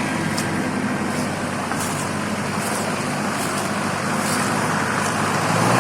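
Off-road 4x4 vehicle engine running steadily, with faint clicks over it.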